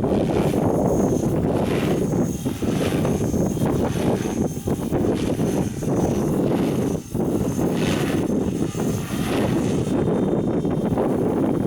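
Strong wind buffeting the microphone, with a faint high whine that comes and goes from a Forza 450 radio-controlled helicopter flying.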